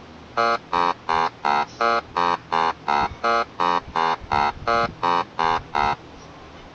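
A short, buzzy, pitched note repeated fifteen times at an even pace of about three a second, stopping about a second before the end.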